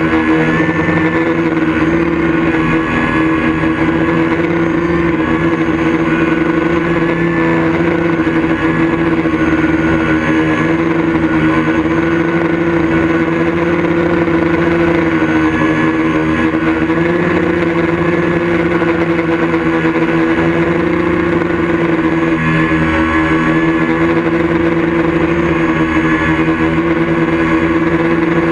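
A loud, steady mechanical drone at one unchanging pitch, with short wavering high notes recurring every few seconds.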